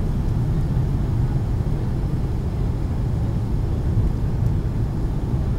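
Steady low cabin noise inside a Boeing 757-200 airliner in flight, the hum of engines and rushing air heard from a seat behind the wing.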